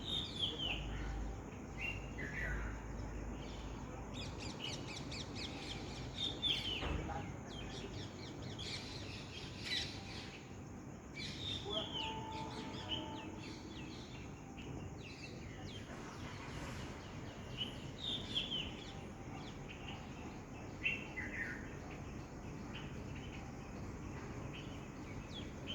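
Birds singing and calling, with short whistled notes falling in pitch repeated every few seconds among scattered chirps.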